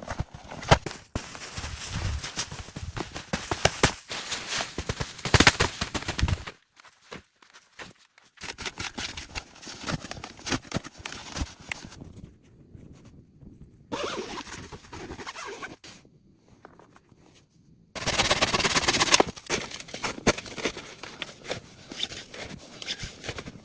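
Rapid crunching and knocking in snow, in short segments that break off abruptly, with two brief near-silent gaps.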